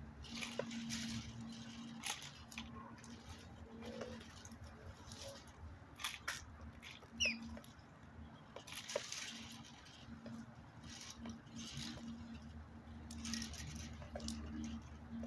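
Birds pecking and scratching, with irregular light taps, clicks and rustles, and one short chirp about seven seconds in, over a steady low hum.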